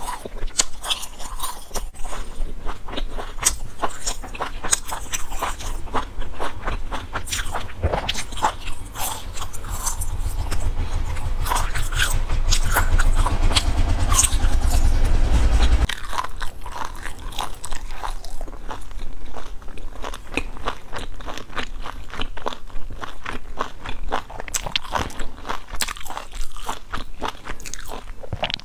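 Eating spicy gluten strips (latiao): biting and chewing, with a dense run of sharp mouth clicks. A low rumble builds from about a third of the way in and cuts off suddenly a little past halfway.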